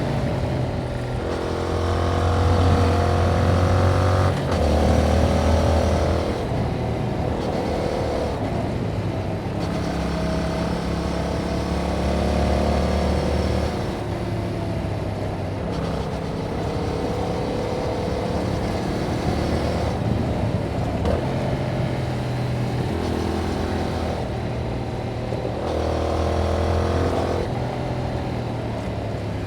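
2021 Yamaha MT-07's 689 cc parallel-twin engine heard through its stock exhaust while being ridden, its pitch climbing and dropping several times as it accelerates, shifts and rolls off the throttle.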